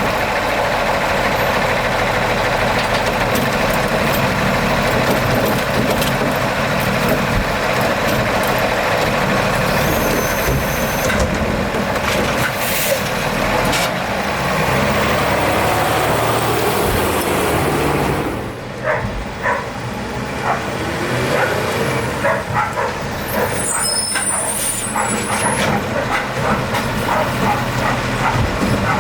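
Garbage truck running hard with a dense, steady noise that drops away suddenly about eighteen seconds in, followed by scattered knocks and clanks.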